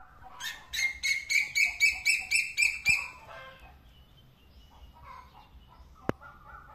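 A bird calls in a rapid series of about ten sharp, high notes at roughly four a second, then falls to fainter scattered calls. A single sharp click comes about six seconds in.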